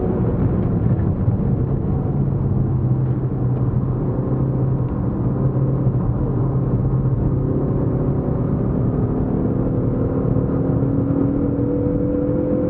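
Ford Focus ST Estate's engine and tyre noise heard from inside the cabin at track speed. The engine note holds steady through a corner, then rises steadily in the last few seconds as the car accelerates.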